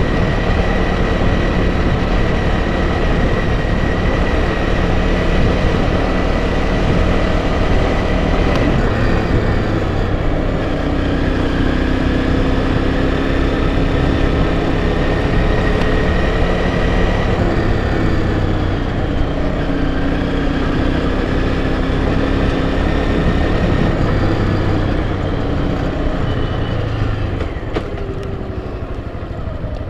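Enduro dirt bike engine running as the bike rides along a trail, over rough wind and rolling noise. The engine note shifts in pitch a few times with speed and eases off a little near the end.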